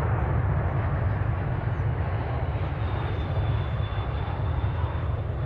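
Jet airliner engines running with a steady rumble as a plane passes, and a faint thin high whine joining about three seconds in.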